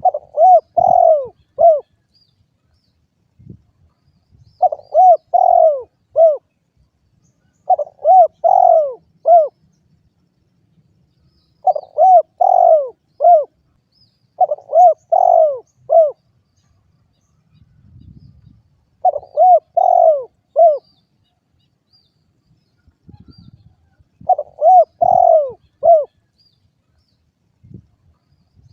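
Spotted dove (derkuku) cooing: seven phrases of four or five rising-and-falling coo notes, each phrase lasting about a second and a half, repeated every three to five seconds.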